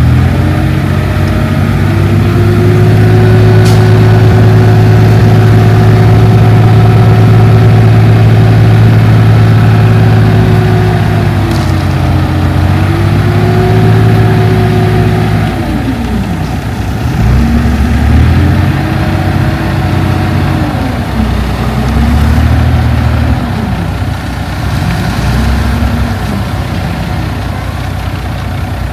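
Heavy earthmoving machine's diesel engine running under load. It holds a steady high speed for about fifteen seconds, then its pitch falls and climbs again several times as the throttle is eased and reopened.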